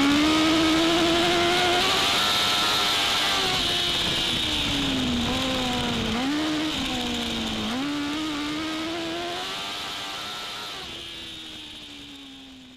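Dwarf race car's motorcycle-based engine heard onboard at speed, its pitch climbing under throttle and dropping back several times. The sound fades steadily away toward the end.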